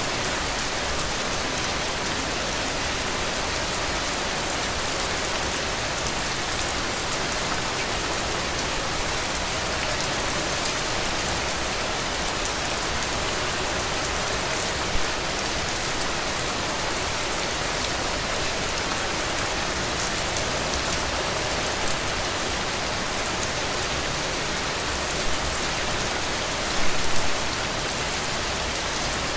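Heavy rain falling steadily, with a few brief louder drop hits and a short cluster of them near the end.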